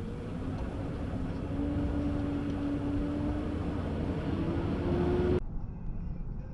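A vehicle driving, heard from its dashcam: steady low road noise under a steady engine hum that rises slightly in pitch. About five seconds in it cuts off abruptly to a quieter, thinner-sounding recording.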